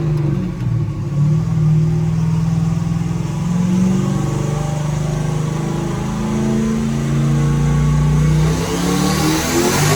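A vehicle engine running at a steady speed that shifts a few times, then revving up near the end.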